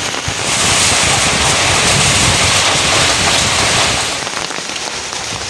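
Heavy rain falling with a loud, steady hiss that swells about half a second in and eases off after about four seconds.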